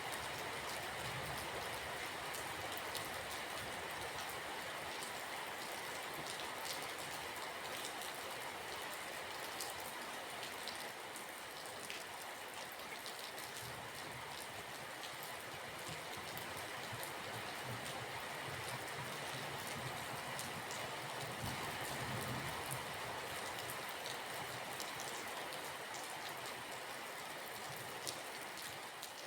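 Steady rain falling, a continuous hiss with scattered drops pattering on a surface.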